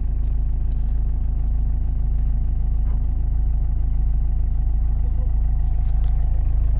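Motor vehicle engine running steadily, a constant low hum with a few faint clicks over it.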